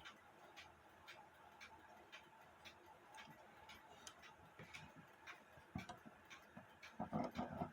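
Faint, even ticking of an old mechanical alarm clock movement running on the bench, about three ticks a second. A short low rustle near the end.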